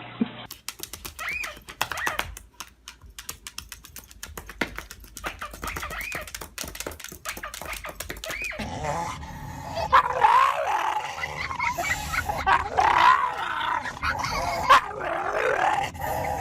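Dog whining and yipping: a few short rising-and-falling whines over a run of sharp clicks, then from about nine seconds in a louder, steady stream of high whines and yips.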